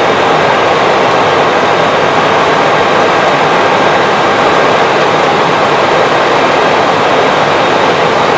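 Steady rushing noise inside an Airbus A320 flight deck: airflow and machinery hum with a few faint steady tones, unchanging throughout.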